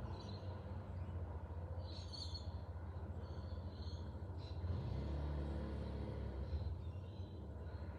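Steady low background rumble, with faint high bird chirps a few times.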